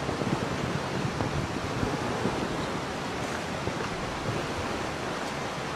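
Ocean waves and surf washing steadily, mixed with wind.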